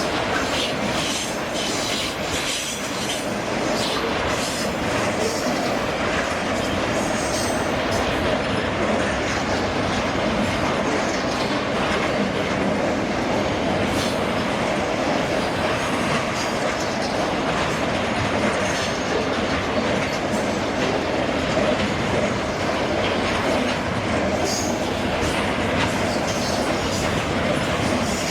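Freight train wagons rolling past on steel rails with a steady rumble. Irregular wheel clicks come over the rail joints, and brief high wheel squeals are heard a couple of times.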